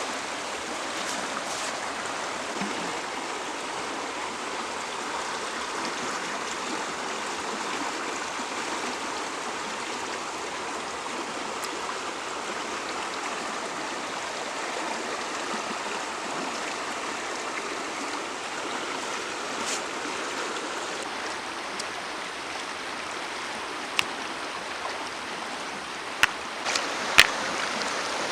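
A stream running steadily, a constant rush of flowing water. Near the end there are a few sharp clicks.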